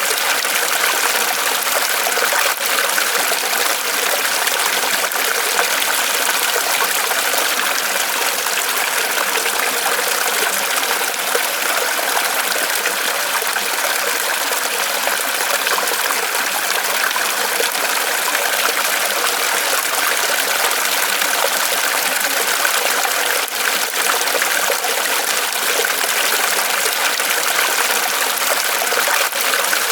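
Small waterfall of water trickling and splashing steadily from a tree trunk, a continuous even splashing.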